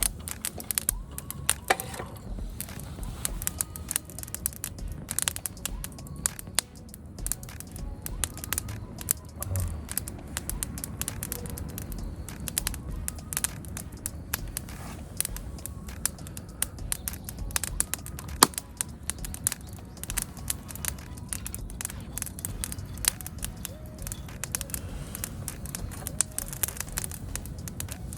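Small wood fire crackling, a dense run of sharp pops and snaps with one louder pop about 18 seconds in.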